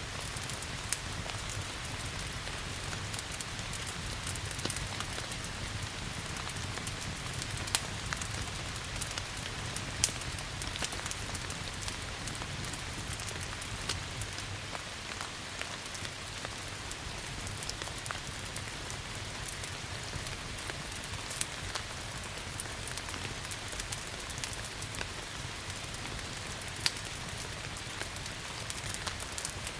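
Steady rain hissing together with a crackling wood fire, its small snaps and clicks running throughout and a few louder pops standing out, over a steady low rumble.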